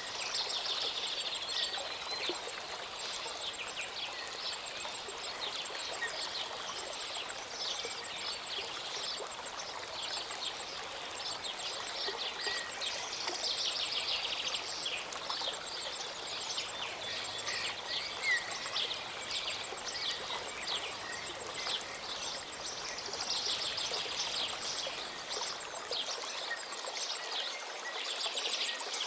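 Small mountain stream or waterfall rushing steadily, with many songbirds chirping and trilling over it.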